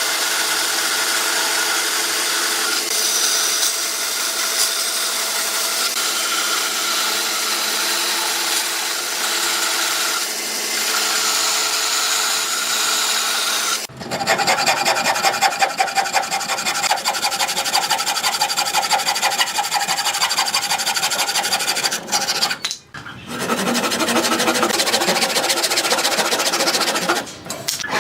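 Hand work on wood: for the first half a steady, even rubbing noise, then after a sudden change about halfway, fast rhythmic back-and-forth strokes of a file, rasp or saw on the wood.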